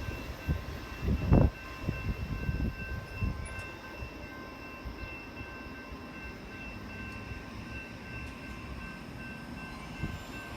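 Train rolling on the rails with a low rumble, a loud knock about a second and a half in, then a steadier rumble. Faint steady high ringing tones sound over it.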